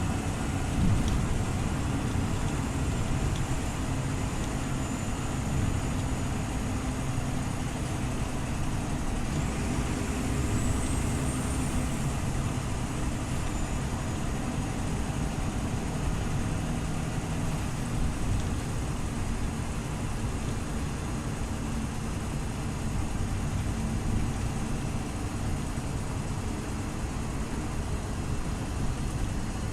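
Scania OmniLink CL94UB city bus running: a steady low engine drone with road noise. A faint high whine rises and falls about ten seconds in.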